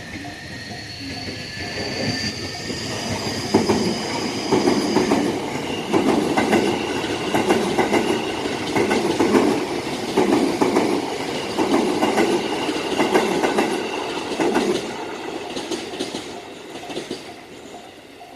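A train passing a Japanese railroad crossing, its wheels clacking over the rail joints in repeated groups about once a second. It grows loud through the middle and fades near the end. A high whine rises in pitch over the first few seconds, and the crossing bell keeps ringing under it.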